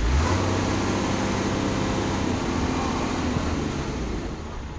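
Truck engine revving up suddenly and holding at raised revs, then dropping back toward idle near the end.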